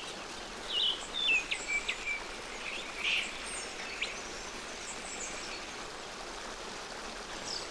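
A few short bird chirps and calls, mostly in the first half, over a steady rushing background of stream water.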